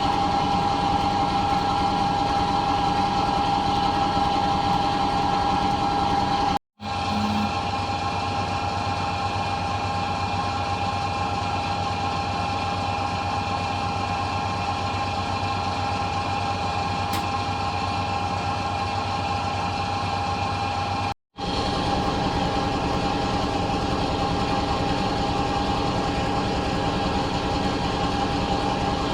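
1966 Bendix LA automatic washing machine in its final spin, the motor and drum running steadily at speed with a constant whine over a low hum. The sound drops out twice, briefly.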